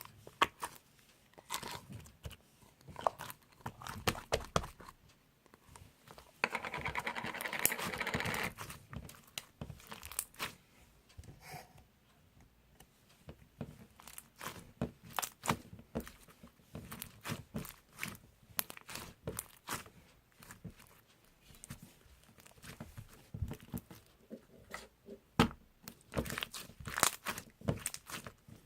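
Crinkling, tearing and scattered small clicks of something being handled by hand, with one longer rasping tear lasting about two seconds, a quarter of the way in.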